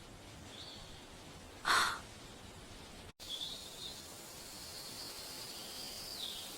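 Faint, thin, high-pitched whining cries, drawn out for several seconds in the second half, with a short rustling burst about two seconds in.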